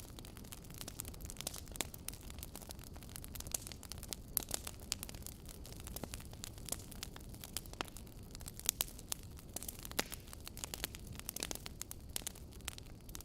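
Wood fire burning in a fireplace: a steady low rumble and hiss with frequent irregular crackles and pops.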